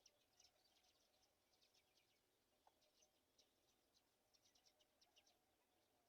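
Near silence with faint, high-pitched bird chirps, many short notes in quick runs.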